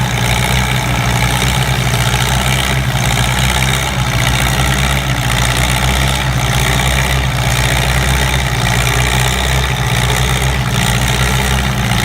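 Minneapolis-Moline tractor engine running steadily and loud, with a deep, even drone.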